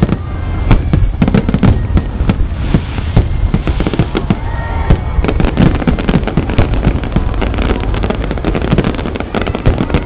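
Fireworks display: a loud, dense, unbroken barrage of bangs and crackles, many per second.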